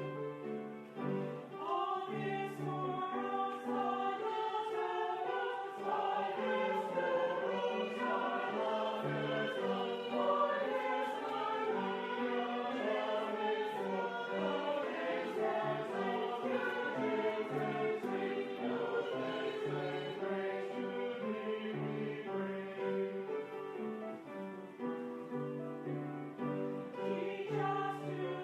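Choir singing sacred music, several voices in harmony moving through sustained notes.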